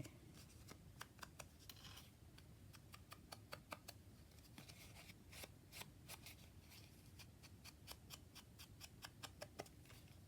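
Faint, irregular small clicks and rustles of paper and fabric being handled at a craft desk.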